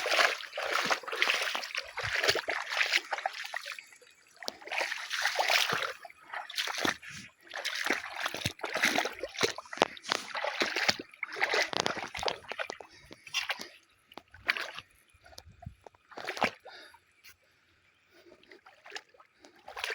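Digging in a wet rice paddy: a tool working through mud and shallow water, with irregular bursts of splashing and sloshing. There is a quieter spell near the end.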